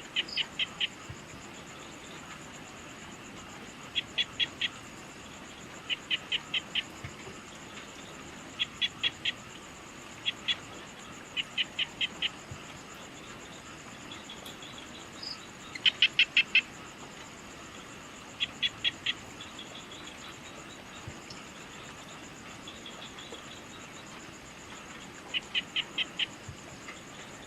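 Evening wildlife sounds: an animal call repeated in short bursts of four or five quick notes every few seconds, over a steady high insect trill.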